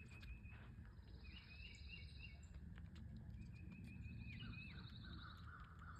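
Faint birdsong: scattered high chirps and two short, fast trills over a low outdoor background hum.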